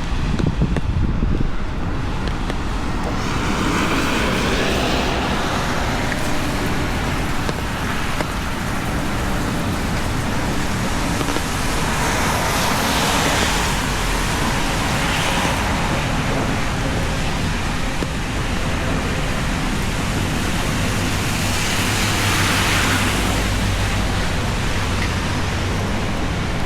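Rain and traffic on a wet city street: a steady hiss of rain, with cars passing on wet pavement and their tyre hiss swelling and fading three times.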